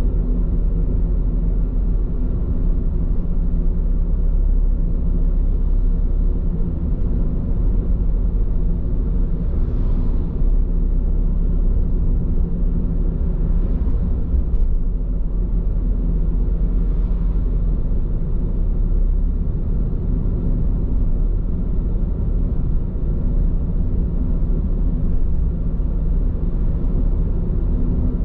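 Steady low rumble of road and tyre noise inside a moving car's cabin, on Bridgestone Regno tyres, with a few faint brief swells about ten, fourteen and seventeen seconds in.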